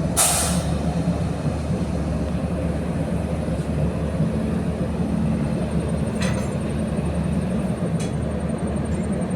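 Steady low rumble of a train running, with a short sharp hiss just after the start and a couple of faint clicks later on.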